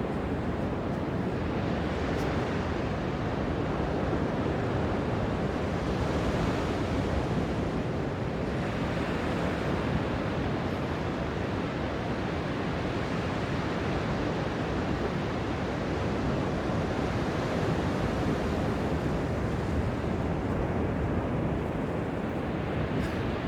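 Ocean surf washing onto a beach: a steady roar of breaking waves that swells a little about six seconds in and again near eighteen seconds.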